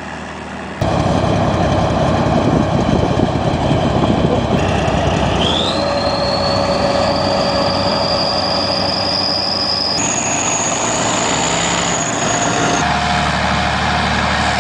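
Heavy vehicle engine running hard, with a high whine that rises about five seconds in and then holds steady. The sound changes abruptly several times, as between shots.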